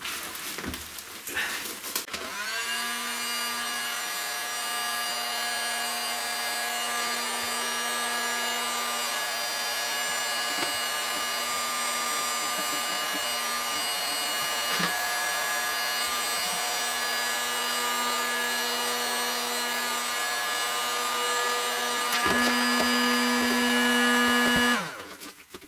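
A small electric motor, as in a power tool, running steadily for about twenty seconds with a constant whine. It grows louder near the end, then cuts off suddenly.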